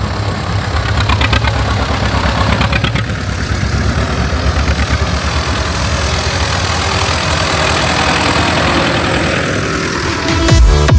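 Tractor engines running steadily. Music with a pounding beat comes in near the end.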